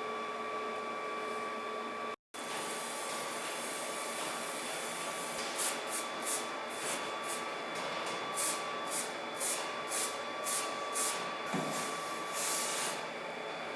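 A steady machine hum with a fixed whine, broken by a brief cut about two seconds in. From about five seconds in come short hissing bursts of air or spray, roughly two a second.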